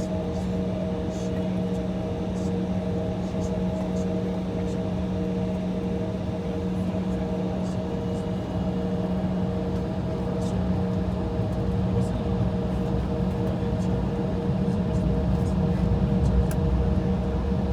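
Steady cabin hum of an Embraer E175 waiting on the taxiway, with a few steady tones over the noise of its idling engines and air conditioning. A low rumble grows somewhat louder in the last few seconds.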